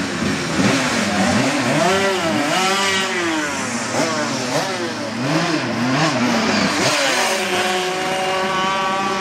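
500cc Grand Prix racing motorcycle engines running and being revved, with the throttle blipped up and down over and over, several engines overlapping.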